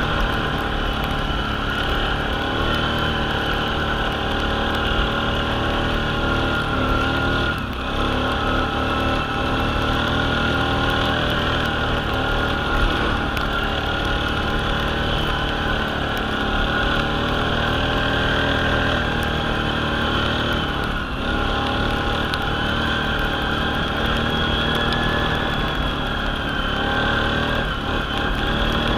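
Suzuki Vinson 500 ATV's single-cylinder four-stroke engine running steadily under way, its pitch wandering a little. The throttle eases off briefly about 8 seconds in and again about 21 seconds in.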